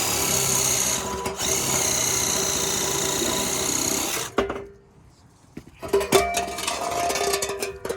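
Power tool cutting through the steel exhaust pipe to free the muffler. It runs steadily, stops about four seconds in, then starts again with sharp metallic clanks near the end.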